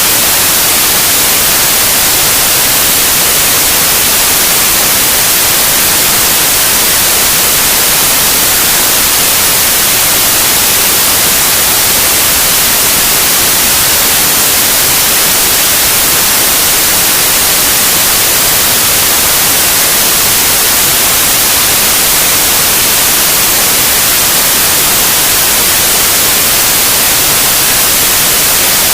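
Loud, steady white noise: an even hiss across all pitches, brightest in the highs, without change.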